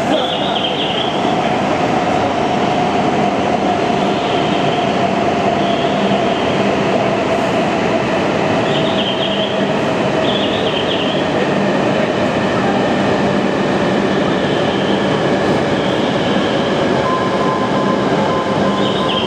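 Tohoku Shinkansen train slowing as it pulls in alongside the platform: a steady loud rumble of the running train, with a whine that falls slowly in pitch as it brakes, and brief high squeals now and then.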